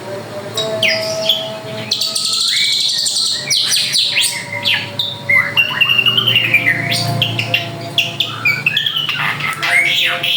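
Drongo singing a loud, varied song: whistled notes that rise and fall, mixed with fast chatter and sharp calls, with hardly a break.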